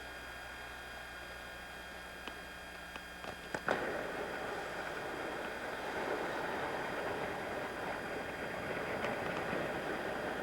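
Sailboat at sea: a steady low hum, a few sharp clicks about three seconds in, then a louder rushing of wind and water.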